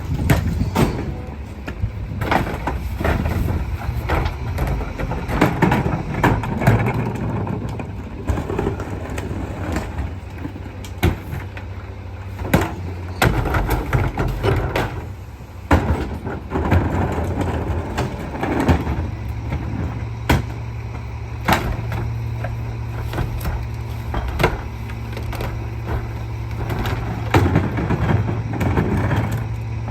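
Garbage truck's diesel engine running steadily, with repeated metallic clanks and knocks from the truck's lifting and packing work. The engine speeds up about two-thirds of the way through.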